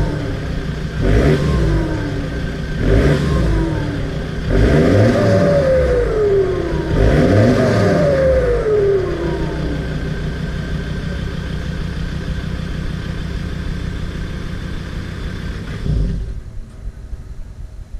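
Ford Ranger PX T6 engine revved through an HKS aftermarket exhaust: three quick throttle blips, then two longer revs whose pitch rises and falls back. It settles into a steady idle, and about sixteen seconds in the engine is switched off.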